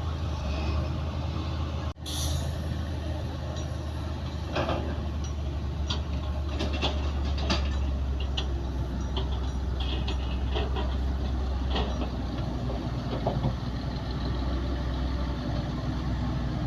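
Heavy diesel earthmoving machinery, bulldozer and dump-truck engines, running with a steady low hum. About two seconds in the sound drops out briefly and a short hiss follows, and scattered clanks and knocks come through the middle.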